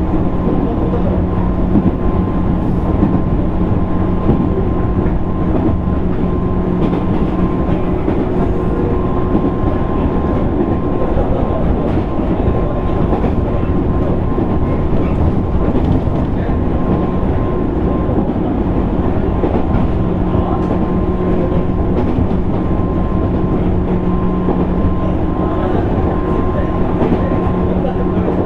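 JR East 205 series 600 subseries electric train heard from inside a motor car while running at a steady speed: constant rolling and traction noise with a steady hum and whine from the motors and gearing, and faint wheel clicks over the rail joints.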